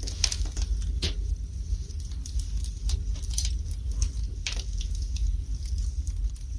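Wood fire burning in a fireplace, crackling and popping at irregular intervals. The loudest pops come right at the start and about a second in, over a steady low rumble.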